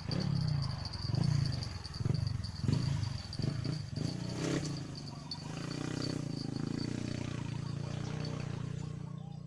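Crickets trilling steadily at a high pitch. Under them, a run of low thuds comes about once or twice a second through the first half, then gives way to a steady low hum.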